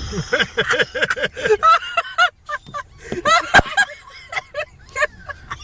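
People laughing hard in quick runs of short bursts, with a single sharp knock about three and a half seconds in.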